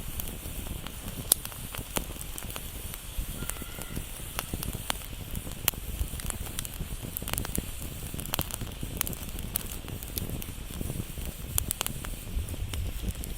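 Fire burning, with irregular sharp crackles and pops over a steady low rumble of the flames.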